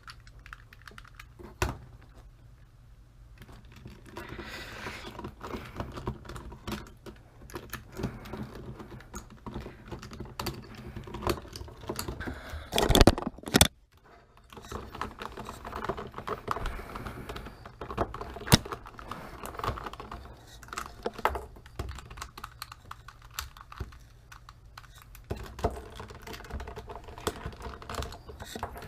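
Plastic 4x4 Rubik's cube being turned by hand, giving irregular clicking and clacking of its layers, with one louder clatter about halfway. The cube is stiff, tightened too much and not lubricated.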